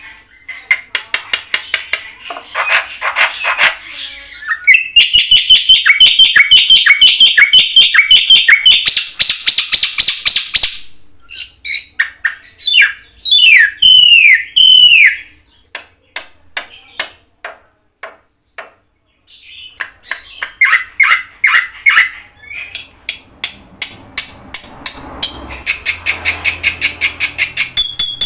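Black-winged myna (jalak putih) singing a loud, varied song full of mimicked phrases: fast runs of repeated chirps and rattles, a few downward-swooping whistled notes around the middle, then a short pause before the rapid chirping picks up again.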